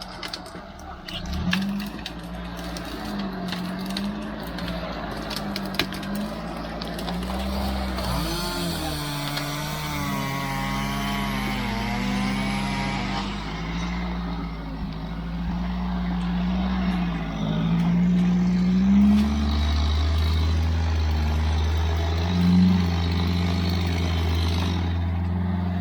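Off-road motorcycle engine running, its revs rising and falling as it rides, with a few sharp clicks in the first seconds. A second, higher wavering tone comes in about 8 to 13 seconds in, and the engine grows louder and steadier after about 18 seconds.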